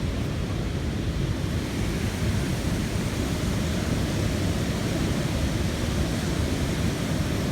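Steady rush of water from the Manavgat River waterfall, an even, unbroken noise heaviest in the low range.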